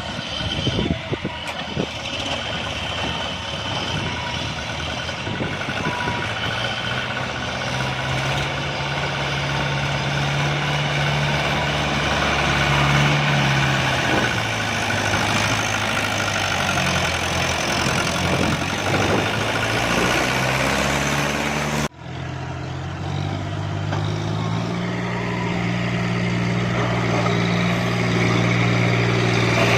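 Tractor engine running under changing throttle, its pitch rising and falling. There is a sudden break about three quarters of the way through, after which the engine runs on and rises again.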